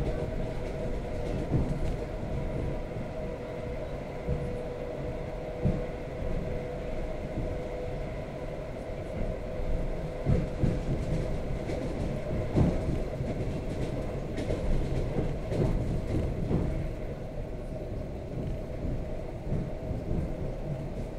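ED4M electric multiple unit running at speed, heard inside the carriage: a steady rumble of wheels on the track with a steady hum, and irregular knocks from the wheels striking rail joints.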